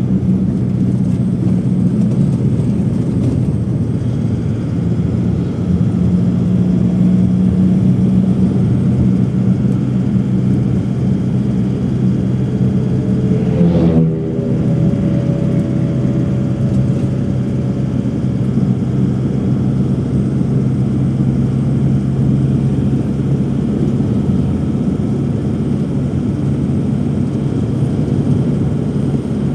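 Steady engine drone heard from inside a moving passenger vehicle. About halfway through, the pitch glides sharply and then settles into a different steady tone.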